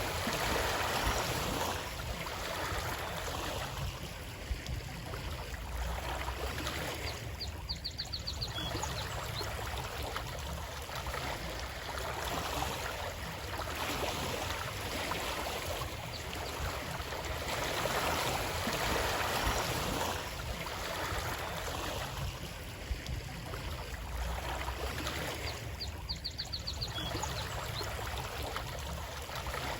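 Flowing water, a steady rush that swells and eases every few seconds. A short run of quick high ticks comes twice, about eight seconds in and near the end.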